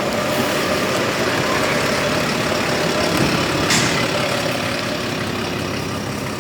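Steady rumble of a transit vehicle heard from inside it: engine and running noise with a faint steady hum.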